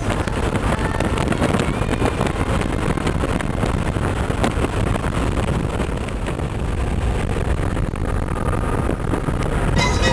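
Motorcycle running along the road with wind rushing over the microphone, a steady loud rumble and rush. Music comes in right at the end.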